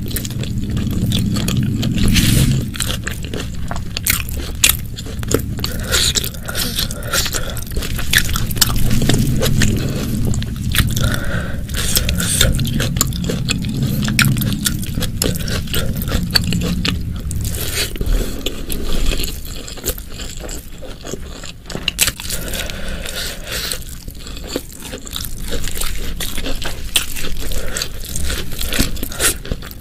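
Close-miked chewing and mouth sounds of a person eating, with many small irregular clicks. The chewing is fuller and heavier for about the first half, then lighter.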